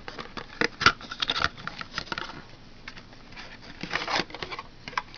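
A small cardboard product box being opened and handled to take out a glass deodorant bottle: irregular rustling, scraping and sharp clicks, with a longer rustle about four seconds in.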